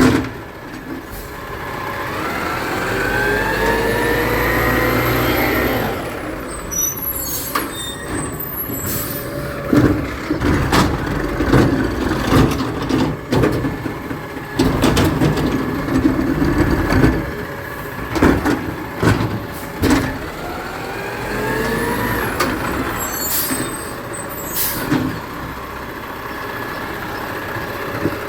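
Garbage truck at work: a rising mechanical whine for several seconds as the engine and hydraulics wind up, then a long run of clanks and knocks, with a second shorter rising whine about 22 seconds in.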